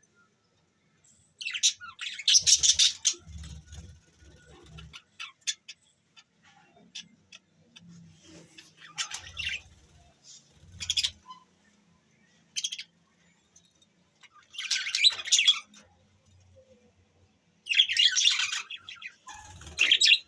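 Budgerigars chirping and chattering in bursts of about a second, with quieter scattered chirps and short gaps in between.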